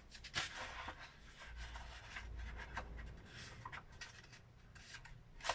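Homemade leaf brush being dipped into a pot of thin ink and wiped off: irregular scratchy rubbing and rustling of leaves, with a sharp tap about half a second in and another near the end.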